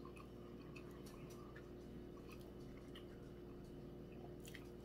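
Faint chewing of food: soft, scattered mouth clicks and smacks, with a slightly louder click near the end, over a steady low hum.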